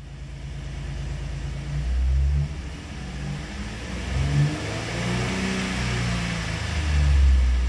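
2007 Jeep Commander's 3.7-litre V6 revved repeatedly in park, heard from inside the cabin. The engine climbs from idle to about 3,500 rpm and falls back between blips.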